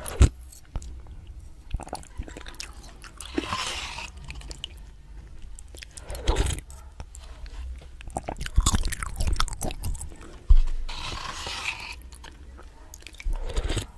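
Close-miked chewing of instant ramen noodles, with wet mouth clicks throughout and three longer, noisier mouth sounds about three, six and eleven seconds in.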